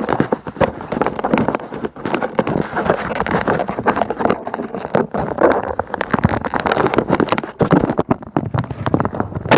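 Wind buffeting the microphone of a vehicle on the move, over its engine and road noise, rising and falling in uneven gusts.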